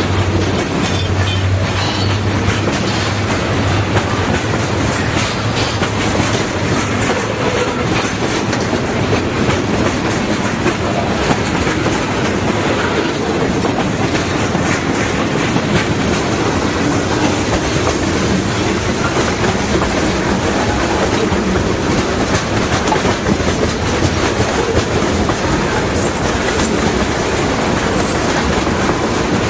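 Freight train cars rolling past, their wheels clacking over rail joints in a steady, loud rumble. A low drone in the first few seconds fades away as the cars keep coming.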